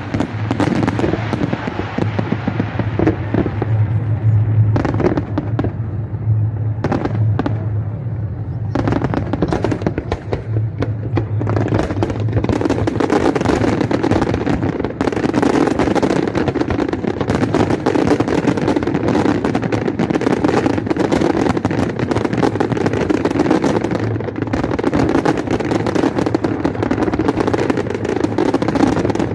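Aerial fireworks display bursting in a rapid, continuous barrage of bangs and crackle, growing denser about a third of the way in.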